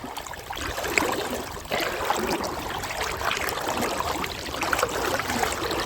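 River water rushing and splashing around a person's legs as they wade upstream against the current.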